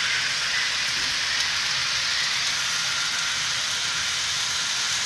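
HO scale model FP9 diesel locomotive with a DCC sound decoder running with its passenger coaches: a steady hiss of the train rolling on the track, mixed with the decoder's diesel engine sound through the locomotive's small speaker.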